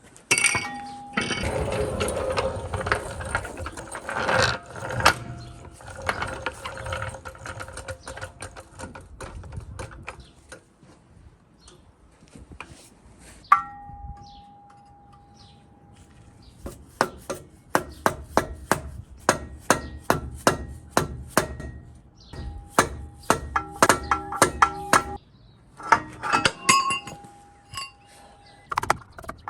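Hammer blows on the steel front suspension of a Nissan Terrano D21, with metallic ringing after the hits, trying to knock out a seized ball joint. The strikes are scattered at first, then come in a fast run of about two a second from around the middle.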